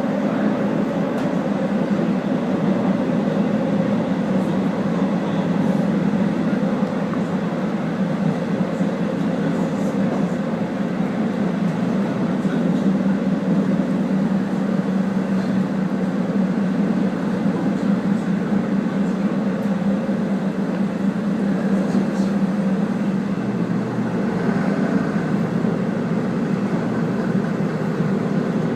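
Steady running noise of a KiHa 48 diesel railcar heard from on board at line speed: a continuous rumble of engine and wheels on the rails with a steady low hum.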